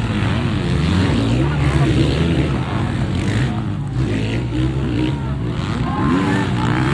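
Several motocross bike engines revving together, their pitch rising and falling as the riders work the throttle.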